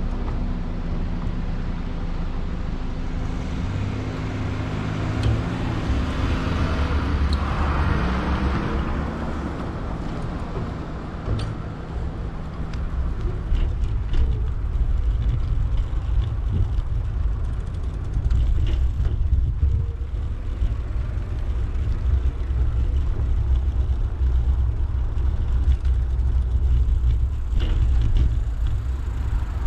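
Street traffic heard from a moving bicycle: a motor vehicle passes about four to ten seconds in, its engine rising and fading, over a steady low rumble.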